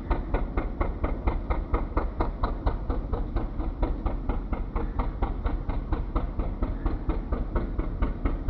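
Fishing boat engine running with a steady, rapid knocking beat, about four to five beats a second.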